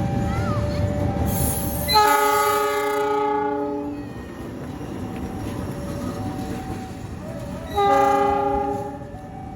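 Train horn sounding two blasts, each a chord of several tones: a longer one about two seconds in and a shorter one near the end. Before the first blast, the low rumble of a running train.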